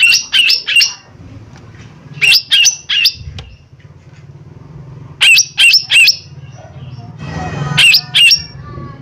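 Cucak ijo mini (leafbird) giving loud, sharp, harsh calls in quick bursts of three or four, four bursts a couple of seconds apart. A faint steady low hum lies underneath.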